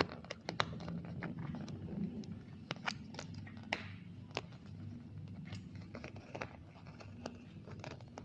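Scattered small clicks and handling noises from small plastic toy pieces being fitted together.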